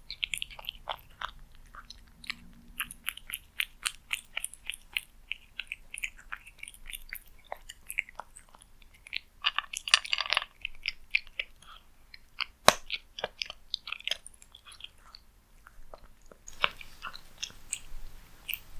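A cat chewing and eating food close to the microphone: a quick run of sharp clicks, several a second, with a denser flurry about ten seconds in and one loud click shortly after.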